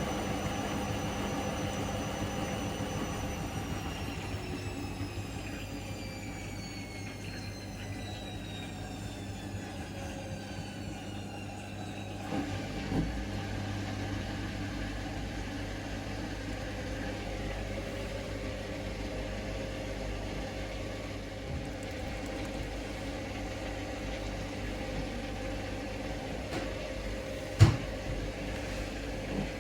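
Hoover Link washing machine ending its intermediate spin: the motor's whine falls in pitch for about ten seconds as the drum slows, and a low steady hum follows. A single sharp click comes near the end.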